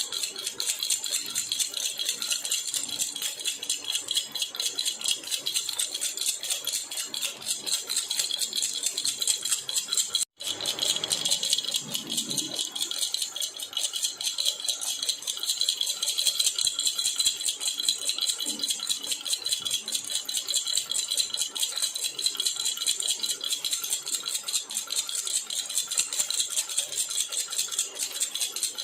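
A jhunjhuna (baby rattle) shaken continuously, giving a fast, even, bright jingling. There is a brief break in the sound about ten seconds in.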